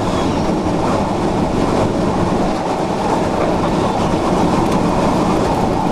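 Tornado wind rushing against a storm-chase vehicle and in through its open window: a loud, steady, rumbling noise like a passing train, without a break.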